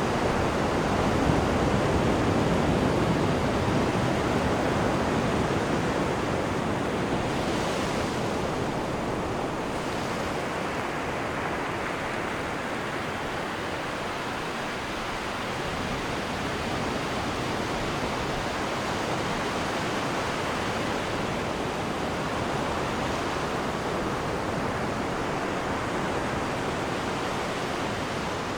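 Wake water churning and rushing behind a cruise ship's stern as a steady wash, a little louder in the first few seconds.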